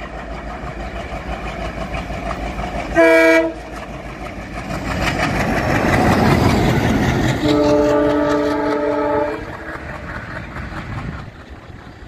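Diesel train passing close by on Indian Railways track: rumble and wheel clatter build to a peak about six seconds in. A short horn blast sounds about three seconds in, and a longer horn blast of about two seconds follows as the train draws away, slightly lower in pitch than the first.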